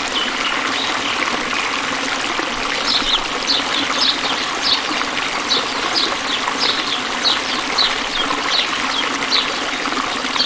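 Running water, a stream with a steady rushing trickle, and a bird calling over it from about three seconds in: a series of short, high, downward-sliding notes, roughly one or two a second.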